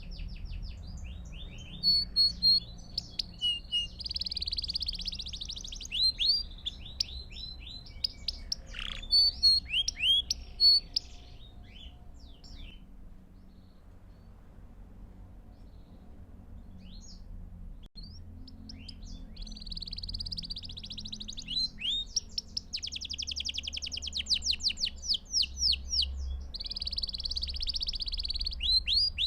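Belgian canary singing in rapid rolling trills and chirped phrases, breaking off for several seconds about halfway through before starting a new run of fast trills. A faint low hum sits underneath.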